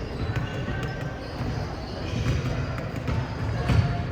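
Basketball game play: a ball being dribbled on the court, with scattered thumps and short high squeaks over a steady gym hubbub.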